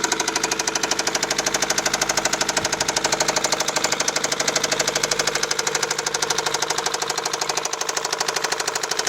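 Engine running with a steady, rapid knocking, roughly eight to ten knocks a second, whose cause the owner cannot identify.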